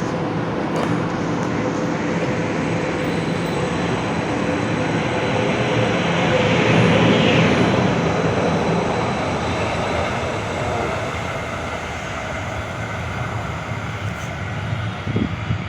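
A moving vehicle running steadily, with a few faint steady tones over its noise; it swells briefly about halfway through, and there are a few light knocks near the end.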